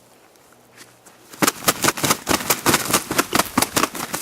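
Shot wild turkey tom flopping its wings in its death throes, a rapid run of sharp flaps starting about a second and a half in.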